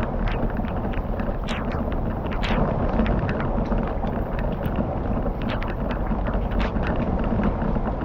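Campfire crackling: irregular sharp pops and snaps several times a second over a steady low rumble.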